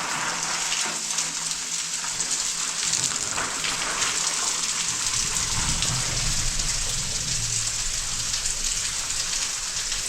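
Water spraying from an electric shower head, a steady hiss.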